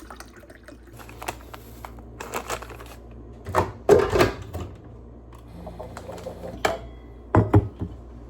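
Clicks, taps and knocks of household objects being handled while a drink is made, the loudest knocks about four seconds in and twice near the end, with a brief low hum a little past the middle.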